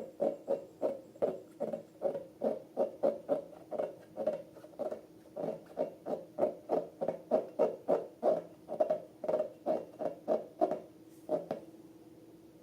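Slime being squeezed and kneaded by hand: a quick, regular run of wet squelches, about two or three a second, that stops near the end.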